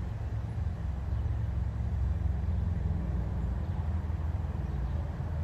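Diesel locomotive engine running with a steady low rumble, growing slightly louder.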